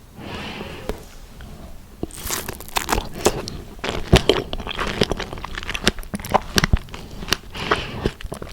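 Biting and chewing fresh strawberries: a dense run of wet, crunchy clicks that starts about two seconds in.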